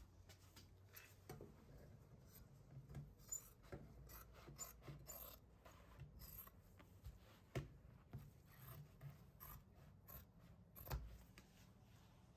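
Faint rubbing and scraping from upholstery material being handled and worked, with scattered short clicks. The two sharpest come about halfway through and near the end.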